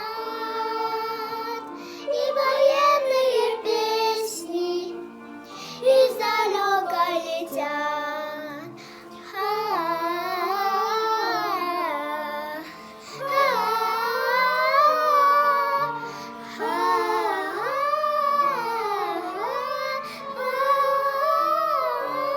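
Music: a child singing a melody with vibrato over instrumental accompaniment, in phrases with short pauses between them.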